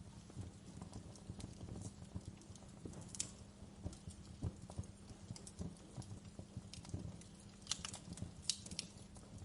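Wood fire crackling: a steady low rumble of burning with dense, irregular crackles, and a few sharper pops about three seconds in and again near the end.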